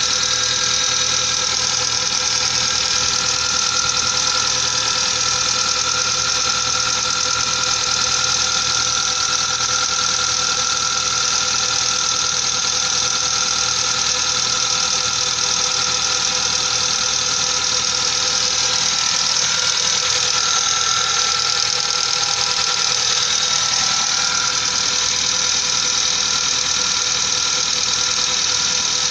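Mazda 626 engine running steadily with its hydraulic valve lifters knocking. Oil grooves have been cut into the lifters as a fix, and they are still knocking.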